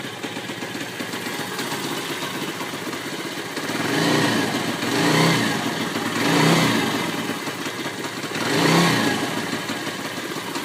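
Stomp 140 pit bike's single-cylinder four-stroke engine running through a homemade muffler of foam pipes taped into the exhaust, idling and then revved four times, each rev rising and falling over about a second.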